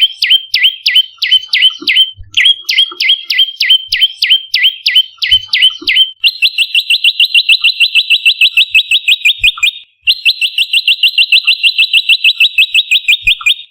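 Prenjak lumut song: a fast series of sharp, down-slurred chirps, about four or five a second, with a short break near two seconds. At about six seconds it changes to a long, very rapid, even trill, which stops briefly near ten seconds and then resumes.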